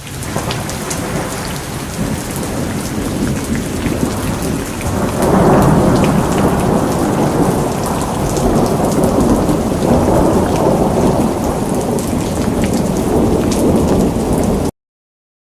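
Steady rain with rolling thunder; the thunder swells about five seconds in and keeps rumbling, and the sound cuts off suddenly near the end.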